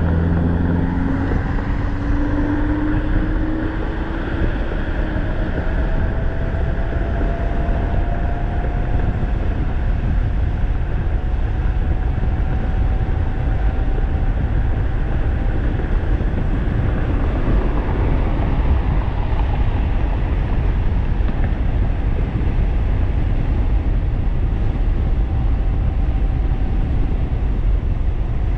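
Wind rushing over the microphone as a 1500-watt e-bike rides at speed, with a faint electric-motor whine that rises in pitch over the first several seconds as the bike accelerates, then holds steady.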